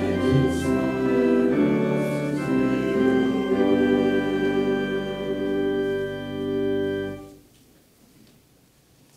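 Church organ playing sustained chords and ending on a long held final chord, which cuts off about seven seconds in. Quiet room tone follows.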